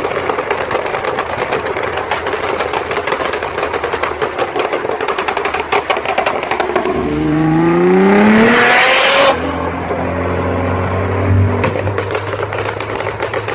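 Car engine through a loud performance exhaust: about seven seconds of rough, crackling running, then a hard rev that climbs for about two seconds and cuts off suddenly, dropping to a low, steady idle with one short blip.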